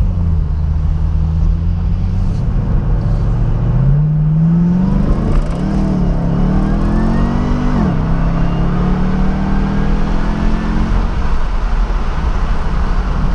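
Chevrolet Camaro ZL1's supercharged V8 accelerating hard, its note climbing twice with a sudden drop at a gear change about eight seconds in, then running steady. A thin high supercharger whine rises over the exhaust during the pulls, made louder by a new Roto-Fab cold air intake.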